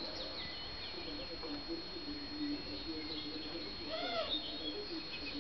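Songbirds chirping and calling outdoors, with one longer rising-and-falling call about four seconds in. Underneath runs a wavering low hum and a faint steady high whine.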